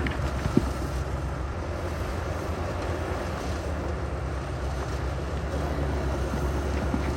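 Diesel engine of heavy earthmoving machinery running steadily with a low rumble, and a single sharp knock about half a second in.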